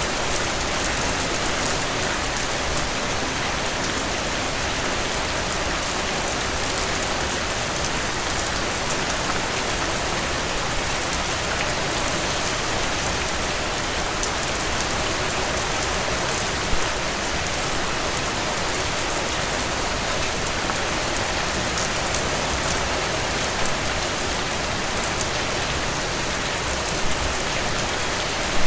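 Steady rainfall: an even hiss of many fine drop taps, with a few slightly louder taps standing out briefly now and then.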